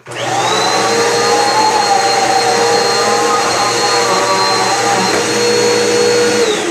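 Eureka PowerSpeed lightweight upright vacuum cleaner switched on, its motor spinning up with a rising high whine and running loud and steady. It is switched off near the end, the whine falling as the motor spins down.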